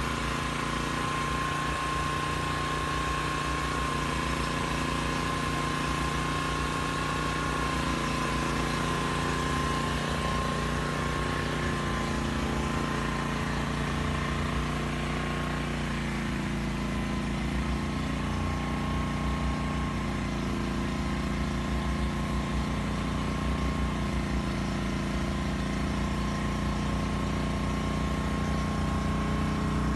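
Agricultural spraying drone's rotors running with a steady, unbroken high whine over a low hum.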